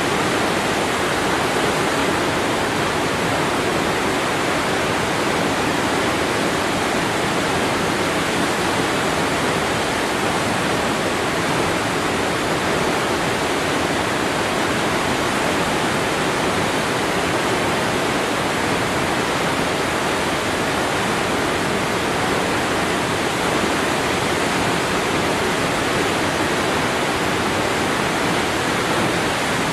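Waterfall: water falling and splashing with a steady, even rush that does not change.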